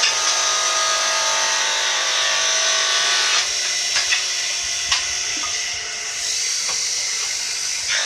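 Electric mosaic tile cutting machine running with a steady high-pitched whine, with a few sharp clicks around the middle.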